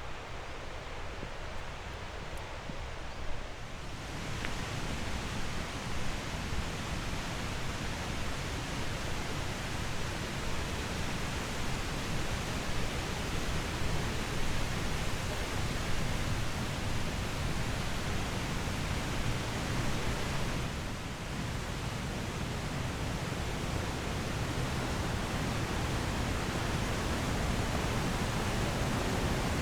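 Rushing water, a steady dense hiss that grows fuller about four seconds in.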